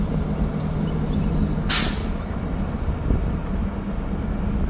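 Engine hum and road rumble of a moving road vehicle, with a short sharp hiss about two seconds in.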